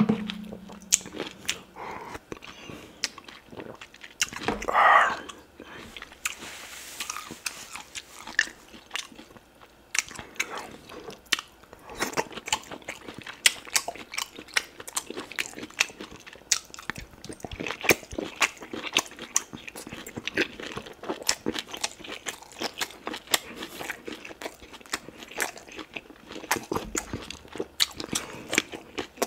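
Close-miked chewing of oxtail pepper soup: wet mouth clicks and smacks in an irregular stream. A louder drawn-out mouth sound comes about five seconds in.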